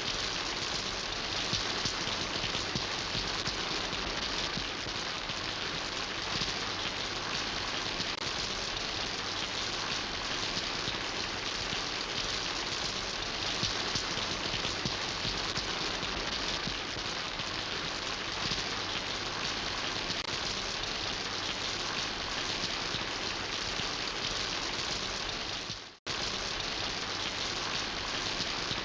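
Steady rain, a dense even patter of drops. About 26 seconds in, the sound fades out for a moment and cuts straight back in.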